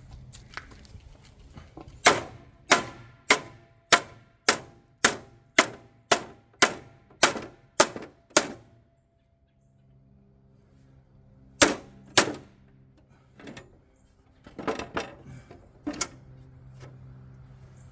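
Hammer blows on the bent metal front plate of a Ryan Greensaire core aerator, beating it back toward straight. First comes a steady run of about a dozen ringing metal strikes, close to two a second. After a pause there are a few more scattered blows.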